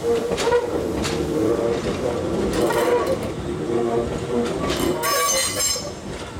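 Nankai 10000 series electric train rolling slowly through yard tracks and points, its wheels clicking over the rail joints with a steady low hum. About five seconds in, a high wheel squeal rises briefly.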